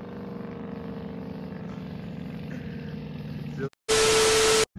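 A car engine running with a steady exhaust drone, its pitch sagging slightly. About four seconds in, it cuts out and a loud burst of TV static hiss with a steady beep plays for under a second.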